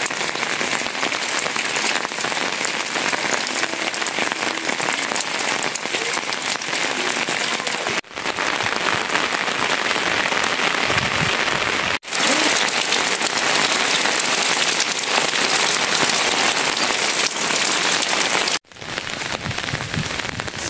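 Steady rain falling and splashing on the ground, a dense even hiss. It cuts off suddenly for a moment three times, about 8, 12 and 18 seconds in.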